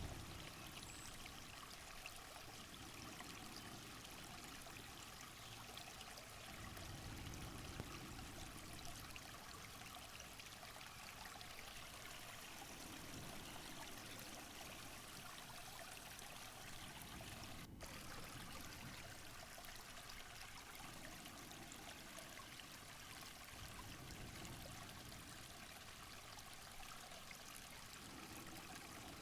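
Faint rush of running water, a steady hiss with soft swells every five or six seconds.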